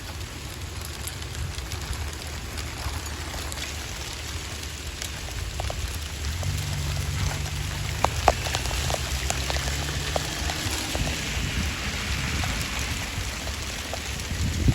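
Pea-sized hail, with some stones up to dime size, falling and striking hard surfaces: a steady hiss scattered with sharp ticks of individual hailstones, the ticks loudest around the middle. A low steady hum sounds through the middle seconds.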